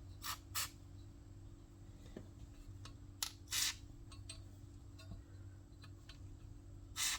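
Several short hissing squirts from an aerosol can of spray lithium grease, the longest a little past the middle, used in place of penetrating oil on a seized Tecumseh lawnmower engine. A steady low hum runs underneath.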